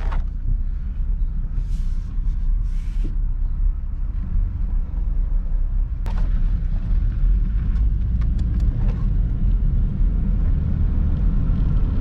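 Car being driven, a steady low rumble of engine and road noise while its transmission is tried through the gears, with a few faint clicks in the middle.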